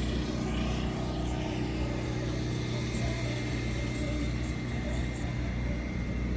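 A motor vehicle engine running steadily at an even, low pitch.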